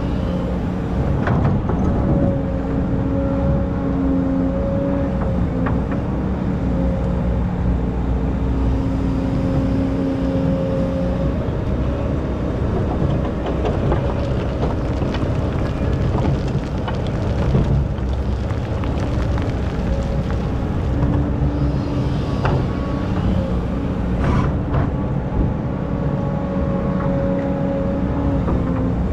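Excavator's diesel engine running steadily, its tone growing stronger and fading back over several seconds as the machine works, with a few scattered knocks.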